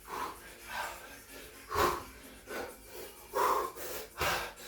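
A man breathing hard and fast, with forceful breaths in and out about once a second: out of breath from heavy exertion.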